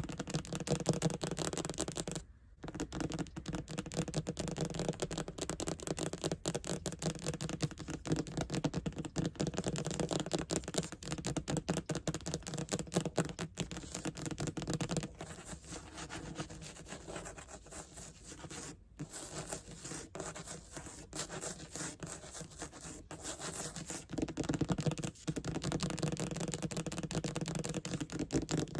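Fast tapping and scratching on a surface close to the microphone, a dense, quick run of small clicks and scrapes with brief pauses about two seconds in and twice more near the end.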